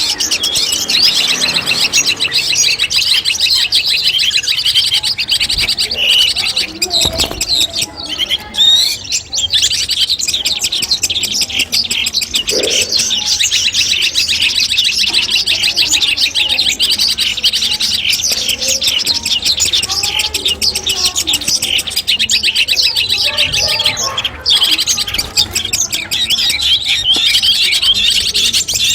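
Long-tailed shrike (cendet) singing a dense, rapid chattering song that runs on without a break, the kind of masteran song recording played to train captive songbirds.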